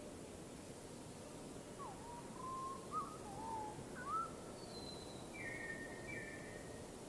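A bird singing a short phrase of varied whistled notes, some sliding up and down, ending on a few higher, brighter notes, over a steady background hiss.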